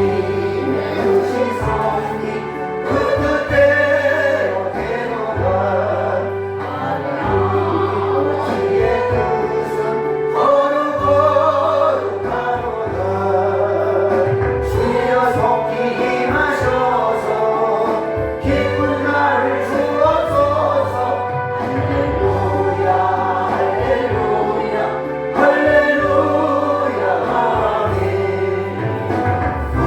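Church congregation singing a hymn together, with an accompanying instrument holding sustained low notes under the voices.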